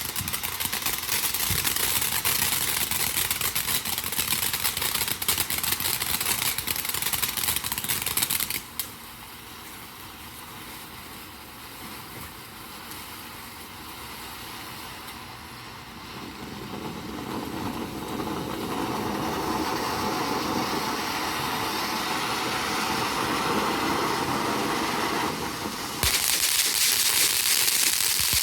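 A burning firework giving out a steady hiss and crackle. The sound drops off abruptly about eight seconds in, builds back up from about sixteen seconds, and comes back loud near the end.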